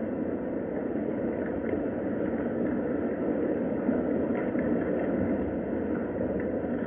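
Steady rain, muffled and low-pitched, with faint scattered ticks of drops.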